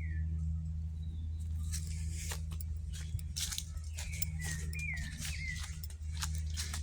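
Birds calling with short downward-sliding chirps, one at the start and a run of four about four to five seconds in, amid irregular crackling clicks and a steady low hum.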